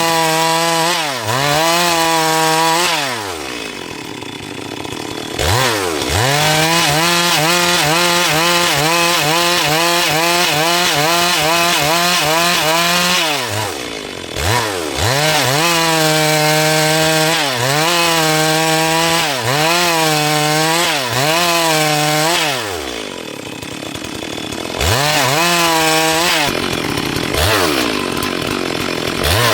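Stihl MS 382 two-stroke chainsaw cutting through a dry log at full throttle, holding a steady high pitch for several seconds at a time. Between cuts it drops back to idle and revs up again three times, then blips the throttle a few times near the end.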